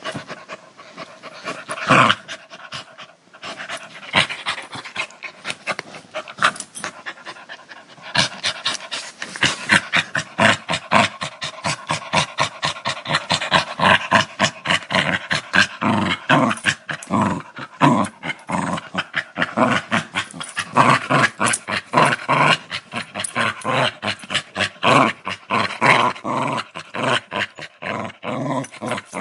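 Dog growling, the growl broken into quick breathy pulses several times a second. It is sparser at first and becomes a steady, denser run from about eight seconds in.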